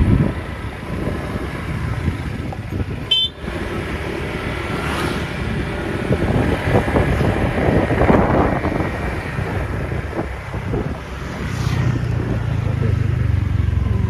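Rented motor scooter running on the move, with continuous engine rumble and wind and road noise, and a brief high-pitched beep about three seconds in.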